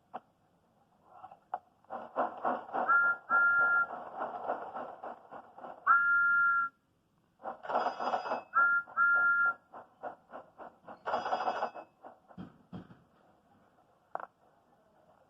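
Steam locomotive chuffing rapidly, with short two-note whistle toots. It stops suddenly, starts again about a second later with the same chuffing and toots, then gives way to a few light clicks near the end.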